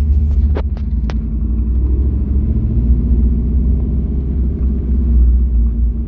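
Steady low rumble of a car's engine running, with a few short sharp clicks in the first second.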